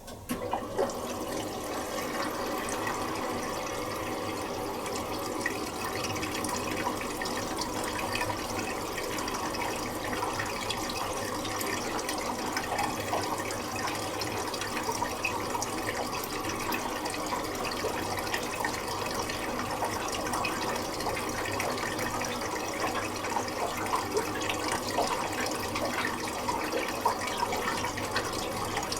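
Miele Little Giant PWM 507 commercial washing machine filling with water for the final rinse: the water comes on suddenly at the start and pours into the drum as a steady rush.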